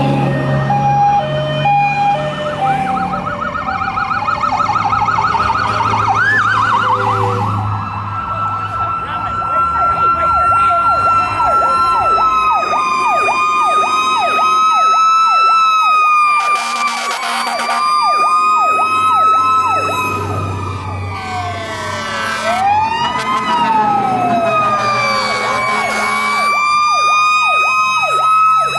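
Several fire truck sirens sounding together. A mechanical Federal Q siren holds a high, nearly steady wail while electronic sirens cycle in a fast yelp and then sweep slowly up and down. A short, loud air horn blast comes about 17 seconds in, and truck engines rumble underneath.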